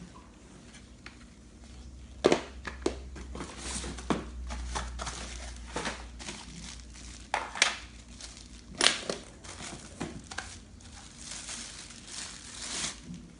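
Packaging crinkling and rustling as parts are unpacked from a box, with irregular sharp clicks and knocks.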